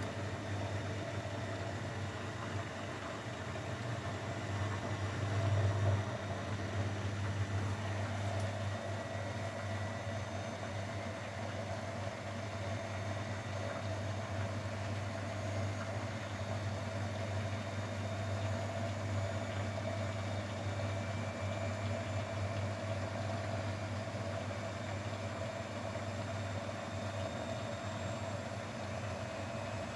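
Grundig Mini 14 washing machine running with a steady low motor hum and drone that holds even throughout, swelling slightly about five seconds in.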